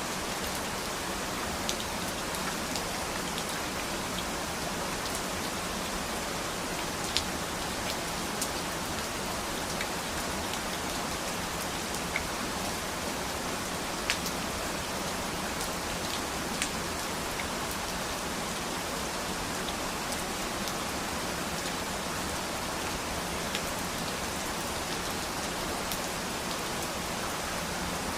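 Steady rain falling, an even hiss with scattered sharper drip ticks from individual drops striking a surface.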